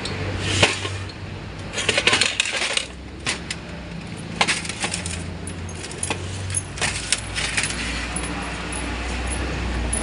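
Metal parts and hand tools clinking and rattling on a workbench in several short clusters, over a steady low hum, during hands-on disassembly of a 5R55W automatic transmission.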